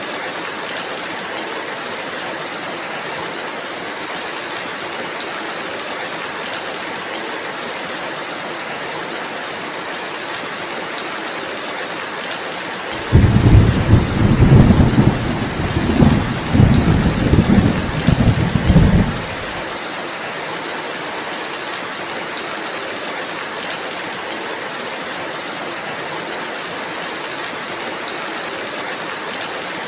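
Steady rainfall. Near the middle a roll of thunder starts suddenly, rumbles in several surges for about six seconds, then stops.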